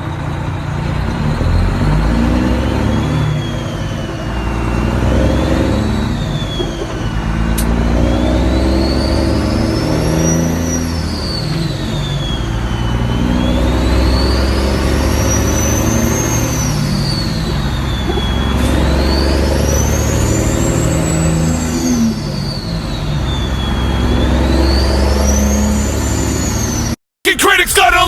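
Truck engine running under changing revs, with a high whine that rises and falls in slow waves every few seconds. The sound cuts off suddenly near the end.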